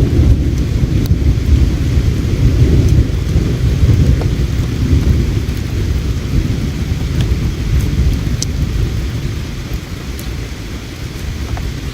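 Deep low rumble, loud at first and easing off gradually through the second half, with a few faint sharp crackles from a campfire over it.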